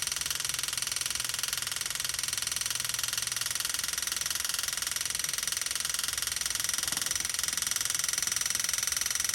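Small electric fuel pump running dry with a steady, rapid buzzing pulse and a high whine, priming to draw diesel up the line from the main tank before fuel has reached it.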